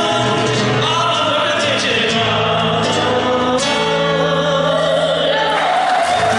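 Live folk song with a singer and guitar, the voice holding long final notes. Applause starts to come in near the end as the song finishes.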